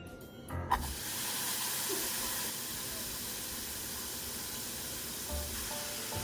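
A steady, even hiss that starts abruptly under a second in, with quiet music notes beneath it.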